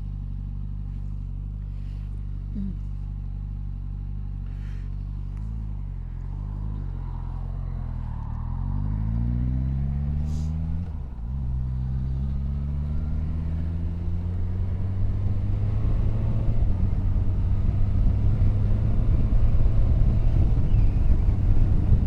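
Motorcycle engine running steadily, then pulling away with its pitch rising, dipping briefly at a gear change about eleven seconds in and rising again. Wind noise builds as speed picks up.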